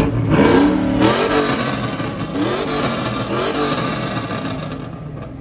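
A vehicle engine revved hard with a loud, raspy exhaust, rising sharply in pitch at the start. It stays loud for a few seconds, then slowly fades as the vehicle pulls away.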